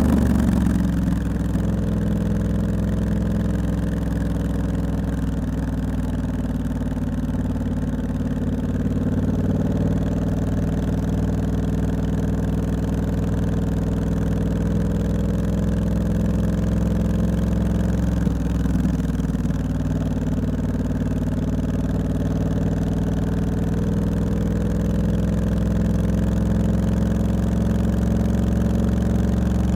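Triumph Scrambler 1200X's 1200 cc parallel-twin engine through a loud Hitchcox aftermarket exhaust. The revs fall just at the start, then the engine runs low and steady, with a brief dip a little past halfway.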